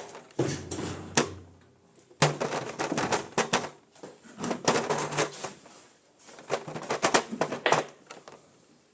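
Hands handling tools and parts at a metal lathe: an irregular run of clicks, knocks and short scrapes, with the lathe not running.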